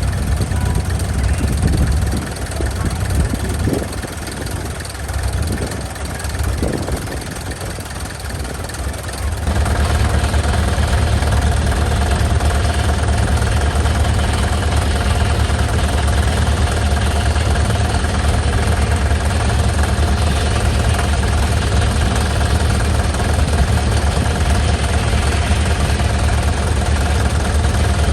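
An engine running steadily. About a third of the way in it suddenly becomes louder and steadier, with a strong low rumble and a held mid tone.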